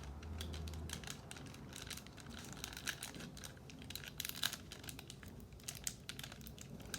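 Trading cards and their foil pack wrappers being handled: crinkling and rustling with many small sharp clicks as cards are flipped through.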